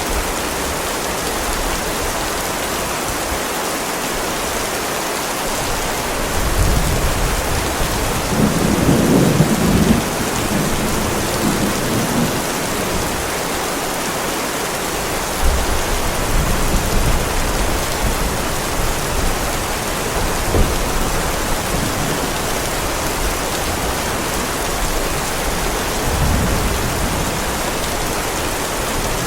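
Heavy rain falling steadily on a driveway, with low rolls of thunder: the strongest about seven to ten seconds in, shorter ones later.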